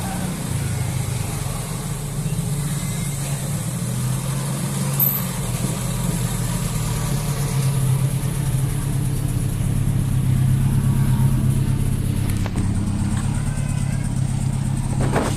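Motor vehicle running with a steady low engine drone that swells a little, with a couple of short knocks near the end.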